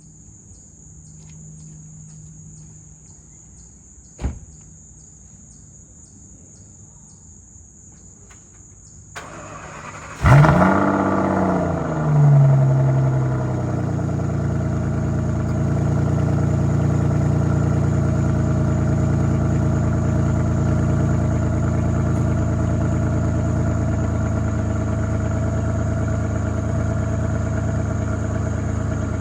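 2012 Aston Martin Virage's V12 on a cold start: after a faint hum and a single click, it cranks and fires about ten seconds in, flares up in revs, dips and flares again, then settles into a steady fast cold idle.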